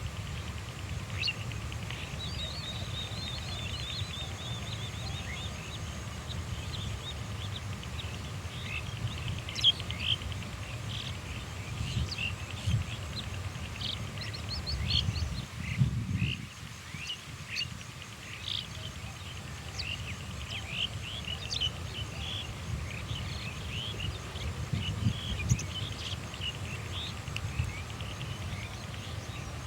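Many short, high bird chirps and calls scattered throughout, with a brief rapid trill about two seconds in, over a steady low rumble of outdoor noise.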